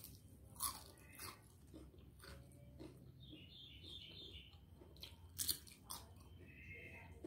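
Mouth-close chewing of a crispy deep-fried fritter (gorengan), with a few sharp crunches about half a second in, about a second in, and again around five and a half seconds in.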